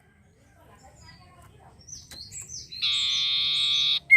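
A sirtu songbird singing: a few short, high, falling chirps, then a loud, steady, buzzy trill lasting about a second, then a quick falling whistle at the very end.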